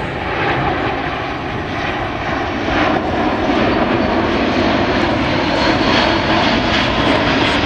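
Engines of a large airplane in flight, a steady loud rush that swells a little about three seconds in.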